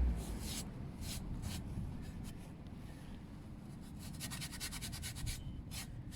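Scouring pad scrubbing a stainless steel motorcycle exhaust that is wet with toilet cleaner. There are a few separate rubbing strokes, then a quick run of short scrubbing strokes about four seconds in.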